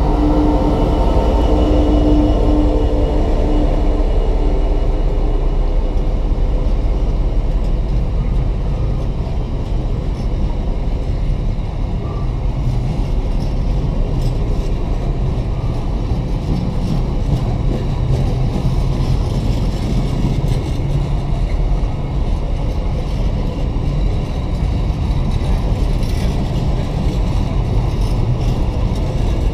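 A Freightliner Class 66 diesel locomotive's two-stroke V12 engine drones steadily as it passes close by. After a few seconds this fades into the continuous rumble of container flat wagons rolling past, with scattered clicks and knocks from the wheels.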